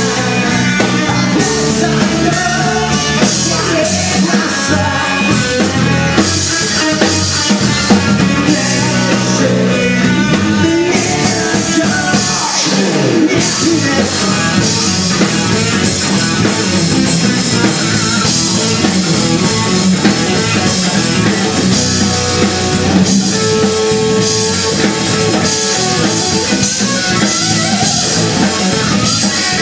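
Rock band playing an instrumental passage: electric guitar over a steady drum kit beat.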